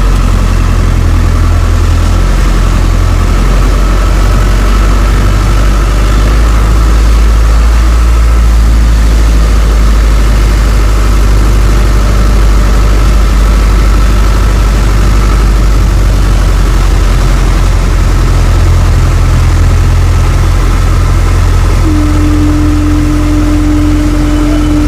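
A motor engine running steadily and loudly. A steady hum joins in near the end.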